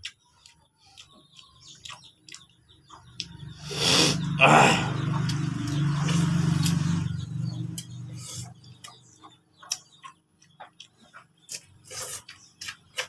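Close-up eating sounds: chewing and lip-smacking in scattered short clicks from a person eating with his hand. About three and a half seconds in, a louder noisy sound with a low hum comes in and lasts about four seconds.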